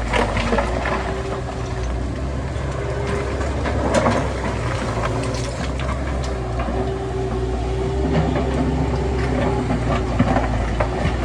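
Heavy diesel construction machinery running steadily, with scattered metallic knocks and clanks; the loudest knock comes about four seconds in.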